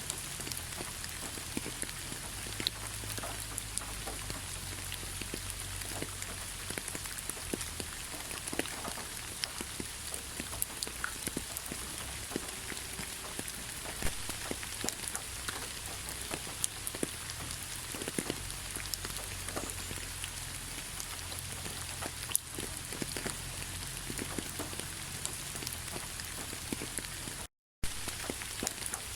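Heavy rain falling: a steady hiss dense with the ticks of individual drops hitting a surface. The sound cuts out completely for a fraction of a second near the end, then resumes.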